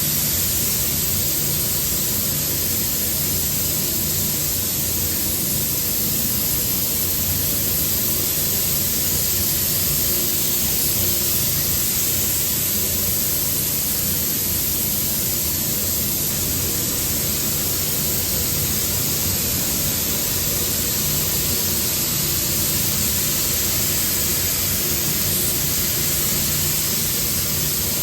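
Steady, unbroken hiss of rushing air from spray-painting equipment, with a low rumble underneath.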